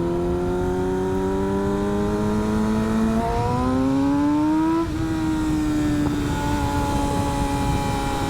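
Vehicle engine pulling under acceleration, its pitch rising steadily, then dropping at a gear change about five seconds in and running on at an even pitch, over low road and wind rumble.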